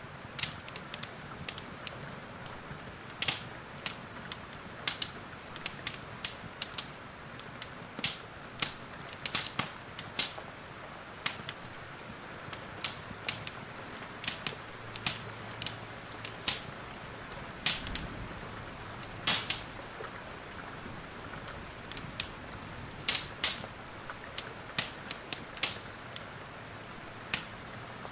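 Wood fire crackling in a fireplace, with irregular sharp pops and snaps over a steady hiss of rain, and one soft low thump a little past the middle.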